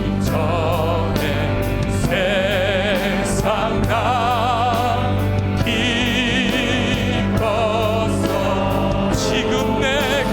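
Church praise band playing a worship song: singers hold long notes with a wide vibrato over keyboard, bass guitar and a steady drum beat.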